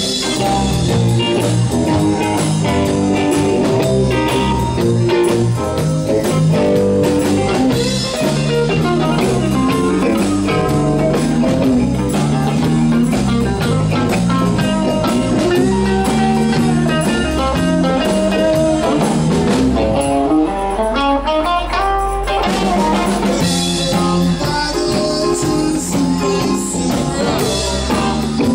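Live blues band playing an instrumental passage: guitar lines over bass and drum kit. About twenty seconds in, the drums drop out for roughly two seconds before the full band comes back in.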